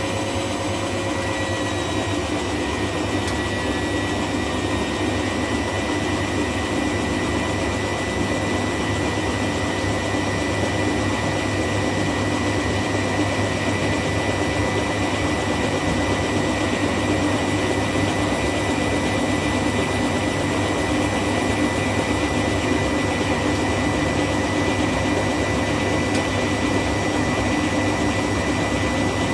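Hoover Classica 1100 AC164 washing machine spinning steadily at its 500 rpm intermediate spin: a constant motor whine with a high steady tone over the rush and hum of the drum. The pitch levels off in the first couple of seconds after the drum comes up to speed.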